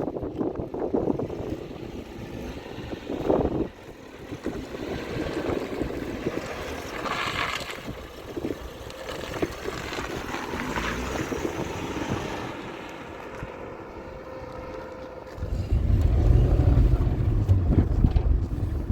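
Wind blowing across the microphone, a rough outdoor rush with a stronger gust of low rumbling buffeting starting about three seconds before the end.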